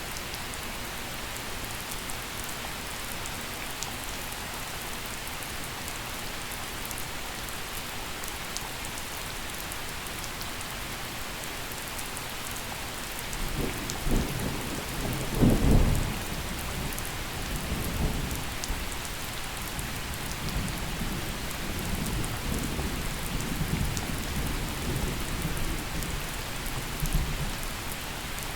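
Steady gentle rain with scattered drips, joined about halfway through by a roll of thunder that cracks loudest shortly after it starts and then rumbles on in waves for over ten seconds.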